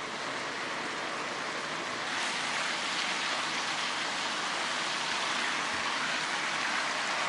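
Minced chicken with diced carrot and potato frying in oil in a pan: a steady sizzle that grows a little louder about two seconds in.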